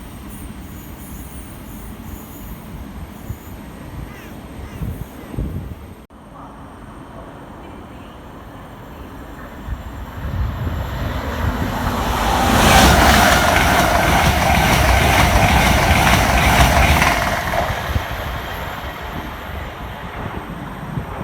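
A train passing through the station. The noise builds from about ten seconds in and is loudest for about five seconds, with a steady high tone over the rumble, then dies away.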